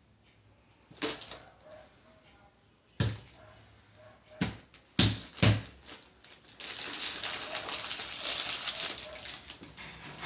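Popcorn being eaten: a handful of sharp crunches, the loudest two close together about five seconds in. Then about three seconds of steady rustling and crinkling, like a hand rummaging in the popcorn.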